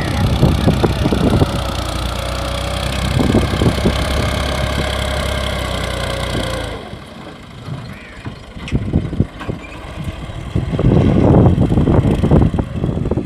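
Tractor engine running steadily, then cutting off abruptly about two-thirds of the way through. Irregular bumps and rustling follow.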